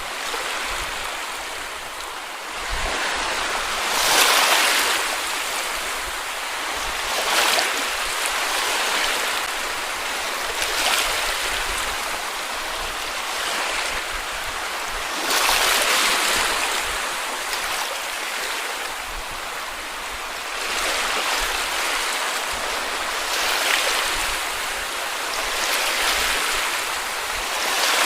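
Sea waves breaking on a beach and washing up the shore. A new wave swells and breaks every few seconds, about seven times, over a steady wash of surf.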